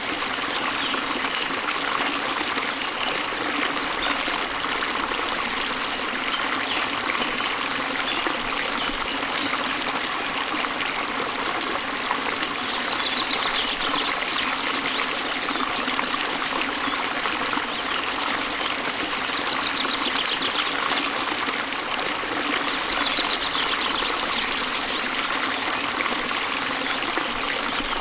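Waterfall water running and splashing steadily, with a few faint bird chirps about halfway through and again near the end.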